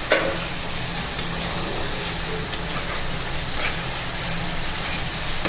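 Onion, tomato, ginger and garlic spice paste sizzling steadily in hot oil in a frying pan while a spatula stirs and scrapes it about once a second. This is the masala being fried down (kosha) for a fish curry.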